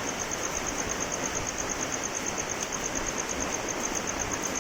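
Steady rain hiss, with a high, thin chirp pulsing about ten times a second over it.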